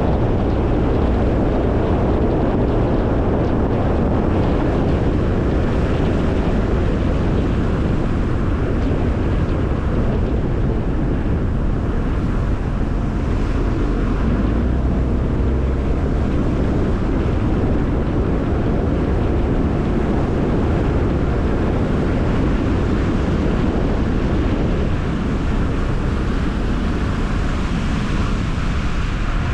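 Car driving at a steady speed: continuous road and tyre noise with wind rushing over the microphone.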